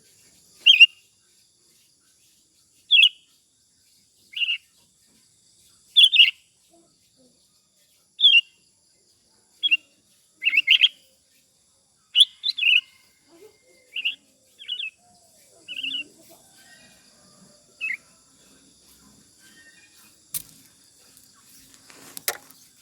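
Sooty-headed bulbul (kutilang) singing a run of short, sharp chirping phrases, one every second or two, sparser after about sixteen seconds. Two clicks come near the end.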